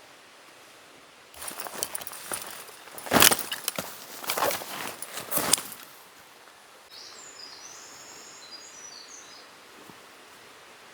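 Footsteps crunching on the forest floor for about five seconds, loudest about three seconds in, then a bird singing a short high phrase over a steady background hiss.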